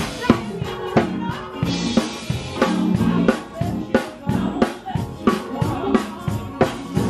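A live band playing, with a drum kit keeping a steady beat of sharp strikes about twice a second over a held bass-guitar line.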